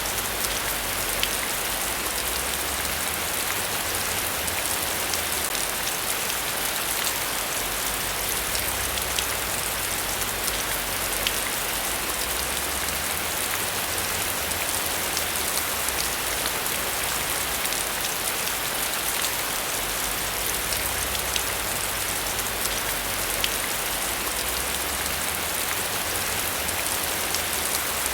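Steady heavy rain, an even hiss with small drop ticks scattered through it, over a faint uneven low rumble.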